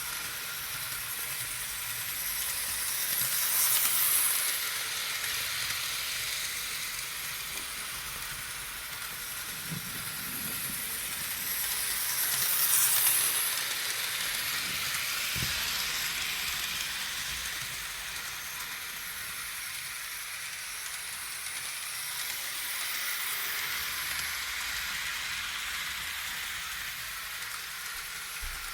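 Life-Like model train set running on its track: a steady hissing rattle of wheels and motor that swells louder about 4 and 13 seconds in, and a little again later, as the train comes past.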